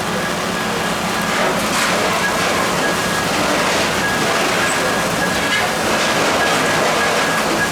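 Steady loud rush of noise from machinery and fire at a firefighting scene, with a high electronic beep repeating in short pulses.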